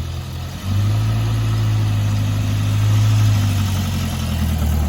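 Car engine running steadily, stepping up to a higher, louder note a little over half a second in and holding there.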